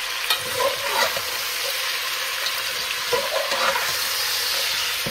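Raw chicken pieces and fried onions sizzling in hot oil in a metal pot, stirred with a metal spoon that knocks and scrapes against the pot a few times. The chicken is being fried so that its water cooks off.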